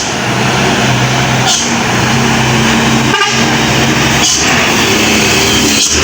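Heavy truck engine running steadily with a low drone, with brief dips in the sound about a second and a half, three, four and six seconds in.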